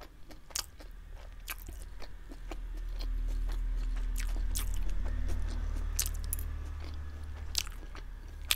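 Close-miked mouth sounds of a person chewing a mouthful of chow mein noodles: scattered wet smacks and clicks, with a low rumble that swells in the middle and fades again.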